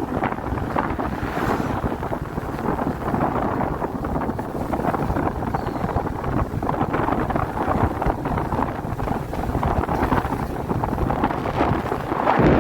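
Wind buffeting the microphone on a moving motorcycle, with the Royal Enfield Classic 350's single-cylinder engine running underneath in a steady, low rumble.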